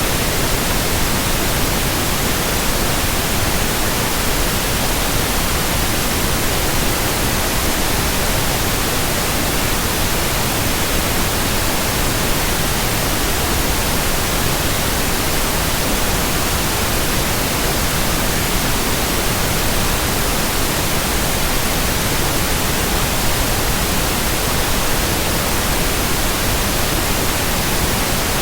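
Steady white noise: an even, unchanging hiss spread across all pitches, with no hum, tone or rhythm in it.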